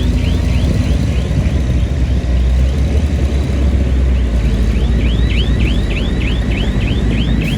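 Heavy diesel earthmoving machinery running with a deep, steady rumble. Over it comes a rapid, even series of high squeaky chirps, about three a second, which fade in the middle and come back strongly about halfway through.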